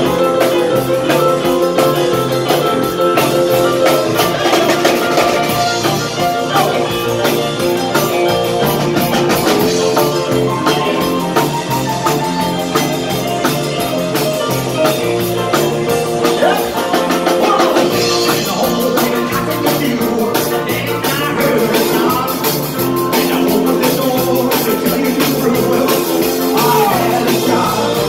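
Live rock and roll band playing with drums and a steady beat; no lyrics are sung.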